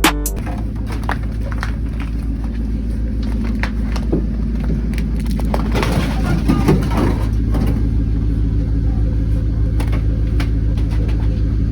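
An engine running steadily with a low, even drone, with a few scattered clicks and knocks over it.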